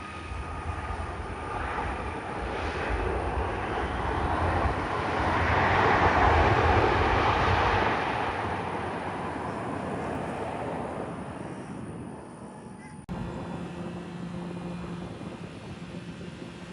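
Private jet passing by, its engine noise swelling to loudest about six seconds in and then fading. About thirteen seconds in it cuts abruptly to a steadier, quieter engine hum with a few constant tones.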